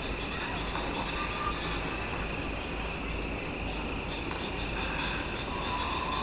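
Steady chorus of insects, most likely crickets, several unbroken high-pitched trills holding the same pitch throughout. A brief faint mid-pitched tone sounds about a second in, and another begins near the end.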